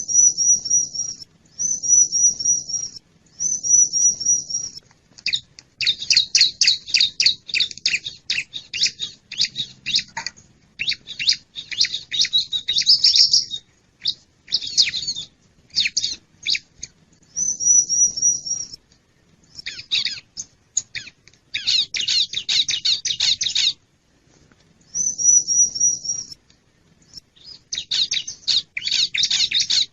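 Bar-winged prinia (ciblek) calling: a high held note of about a second, repeated several times, alternating with long bouts of rapid, dense chattering.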